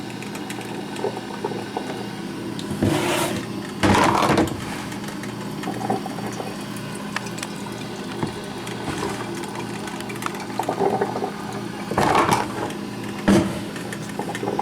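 Black & Decker thermal carafe drip coffee maker brewing: a steady low hum with spurts of gurgling and hissing as the heated water bubbles up, a couple about three to four seconds in and again about twelve seconds in.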